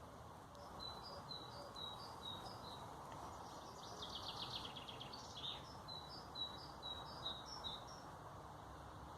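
Small songbirds singing. One repeats a high two-note phrase over and over, and a rapid trill breaks in at about the middle, all over a steady background noise.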